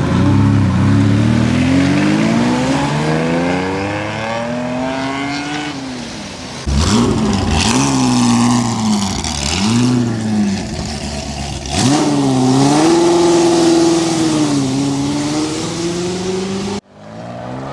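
Performance car engines revving and accelerating in several cut-together takes. The first pitch climbs over about six seconds, then come quick revs up and down, then a higher note held for several seconds, each take ending abruptly.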